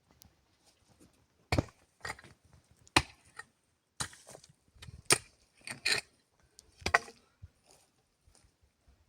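Wood being chopped: about seven sharp, unevenly spaced strikes with faint knocks between them.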